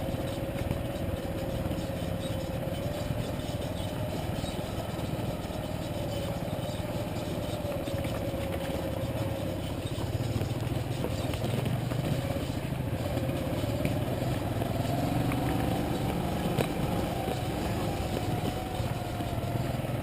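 Motorcycle engine running steadily under way, its note drifting slightly up and down and rising for a few seconds before settling back near the end.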